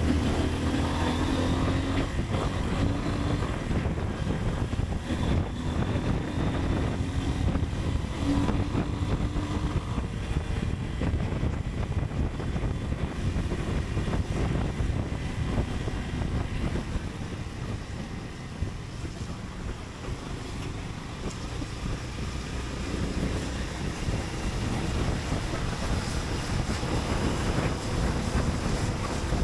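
Motorcycle riding under way, its engine running beneath a steady rush of wind over the microphone.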